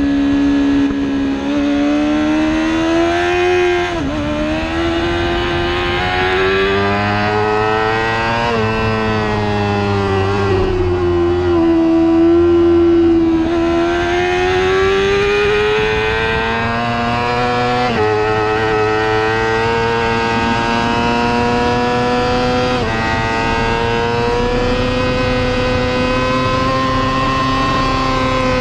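Racing superbike engine at high revs, its pitch climbing steadily and then dropping sharply at each quick upshift, several times. It winds down gradually once while slowing for a corner.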